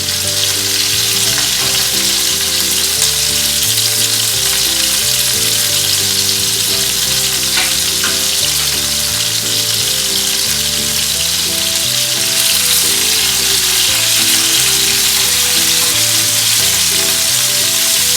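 Marinated chicken pieces frying in hot sunflower oil in a pan, a steady loud sizzle as they brown. Background music with slow changing notes runs underneath.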